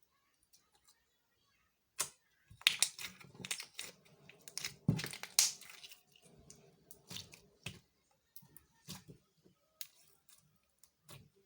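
Slime being pressed and squeezed by hand, giving a quick run of crackling clicks and pops that starts about two seconds in and thins out to scattered clicks after the middle.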